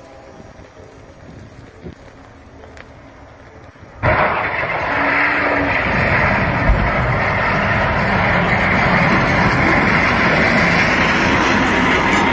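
Freight train passing: a faint low rumble at first, then about four seconds in a sudden jump to a loud, steady rushing rumble as the train goes by.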